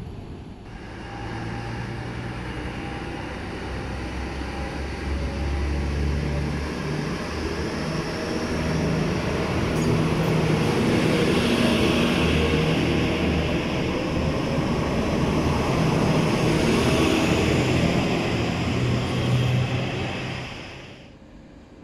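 An AKN commuter train, a diesel multiple unit, running at a station platform. Its sound builds over several seconds, stays loud with a steady low engine tone, then drops away abruptly near the end.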